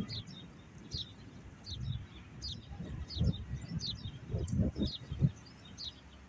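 Small birds chirping over and over, a few short, high, falling chirps a second. Intermittent low rumbles sound underneath, strongest in the second half.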